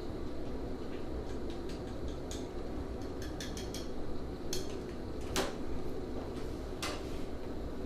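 Scattered light clicks and clinks of hair-styling tools being handled, over a steady background hum. A cluster of small ticks comes about two to four seconds in, and sharper clicks come a little past the middle and near the end.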